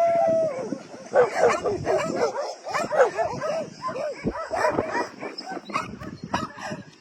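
Dogs barking and yipping repeatedly in quick succession, after a drawn-out whining call that falls away at the start.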